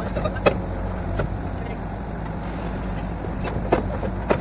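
Diesel engine of a truck-mounted borewell drilling rig running steadily, with sharp irregular metallic clanks about half a second in, about a second in, and several more near the end.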